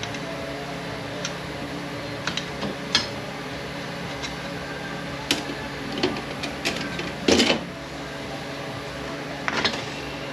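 Metal transmission parts clinking and knocking as they are handled during teardown: scattered sharp clanks, with a louder rattle about seven seconds in and another near the end, over a steady background hum.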